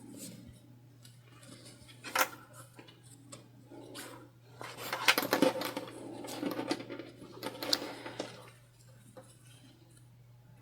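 Fabric being handled and rustled as quilted fabric and a cotton lining are laid together, with a few light clicks and knocks, the clearest about two seconds in. The rustling is busiest in the middle and dies away near the end, over a steady low hum.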